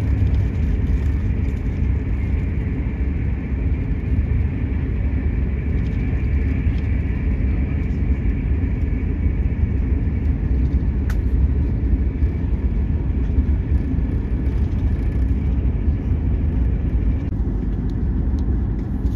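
Steady low rumble of the Enterprise train running along the line, heard from inside the passenger carriage, with a faint steady high whine. A single sharp click about eleven seconds in.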